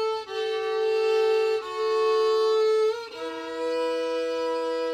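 Solo fiddle bowing slow, sustained double stops, two strings sounding together, moving to a new pair of notes three times and holding the last pair long.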